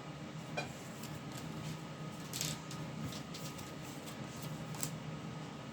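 Tarot cards being shuffled and handled: soft rustles and a few light clicks, the loudest about two and a half seconds in.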